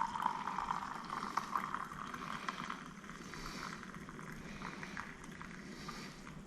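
Hot water poured into a cup of AeroPress coffee to top it up into an Americano: a faint hissing, crackling pour that thins out over the first few seconds.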